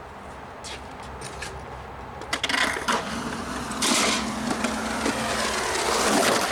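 Skateboard wheels rolling and scraping over rough concrete. It starts faint and turns loud and gritty about two seconds in, with a few sharp knocks of the board.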